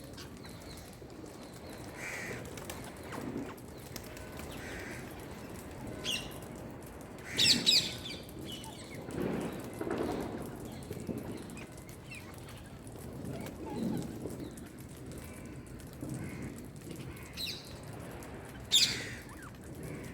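Pet Indian parrot giving short, sharp high calls and chirps: two loud calls about a third of the way in and near the end, with quieter chirps scattered between. A few duller, lower sounds come in the middle.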